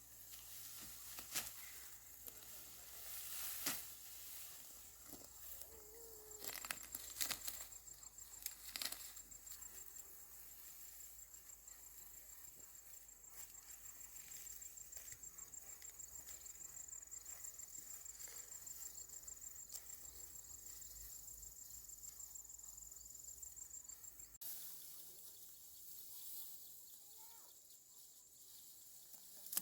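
An insect trilling steadily at a high pitch, a rapid even pulsing that stops abruptly about three-quarters of the way through. Scattered rustles and clicks come in the first several seconds.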